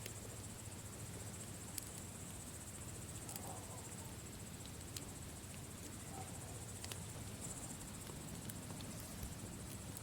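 Campfire crackling softly, with a few sharp pops from the burning wood, over a steady high chirring of crickets.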